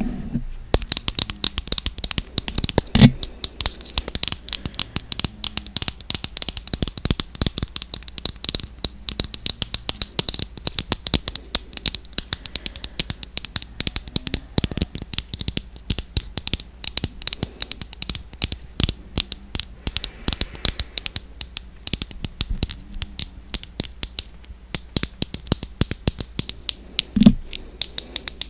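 Fingernails tapping and scratching on makeup packaging, a dense run of quick small clicks, with a louder knock about three seconds in and another near the end.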